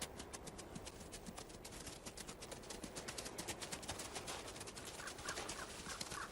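River otter chirping, a quick run of short, repeated calls starting about five seconds in, over a faint crackle of rapid irregular clicks.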